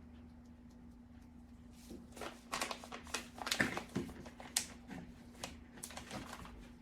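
A run of light clicks and rustles from ingredient containers and packaging being handled, starting about two seconds in, over a faint steady hum.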